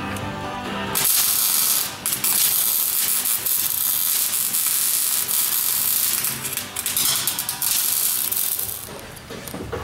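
Loud, harsh rattling and hissing from a workshop power tool, starting about a second in and running for about eight seconds with two short dips, then fading near the end. Background music is heard before it starts.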